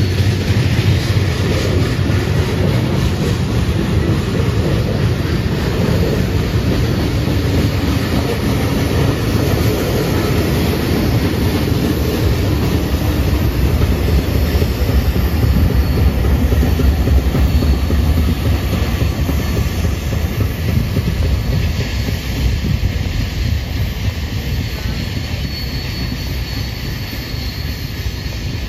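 Train passing: rail cars rolling steadily over the track with a continuous rumble and clatter that eases slightly toward the end. A faint high wheel squeal comes in over the last few seconds.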